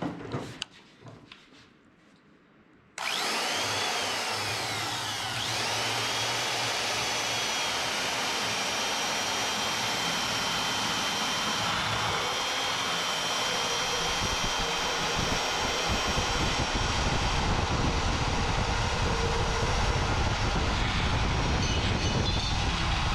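Portable band saw starting up about three seconds in and running steadily as it cuts through a metal mobile-base rail, with a high whine over the cutting noise that grows heavier in the lower range partway through.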